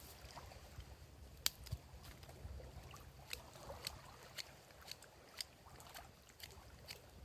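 Wood campfire crackling, with irregular sharp pops over a low steady rumble; the loudest pop comes about a second and a half in.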